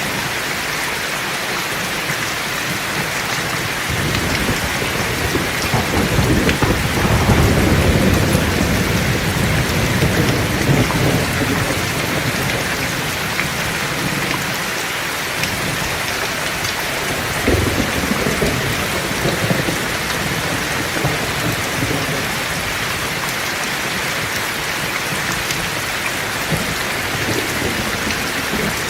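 Heavy steady rain with thunder: a long rolling rumble from about four seconds in to about twelve, and a shorter rumble a little past halfway.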